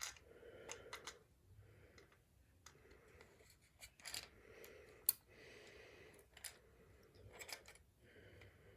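Faint, scattered clicks and taps of small plastic toy parts being handled and fitted while a spring is put back into a toy wing pack, with one sharper click about five seconds in.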